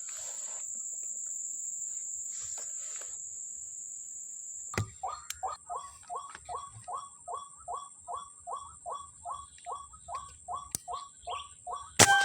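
A steady high insect whine. About five seconds in, after a click, a rapid run of white-breasted waterhen calls starts, evenly spaced at about four notes a second, played as a lure through a speaker. A loud knock comes near the end.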